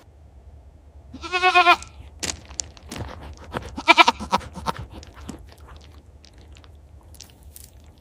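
Goat bleating twice with a quavering call, once about a second in and again about four seconds in, with short clicks and crunches in between.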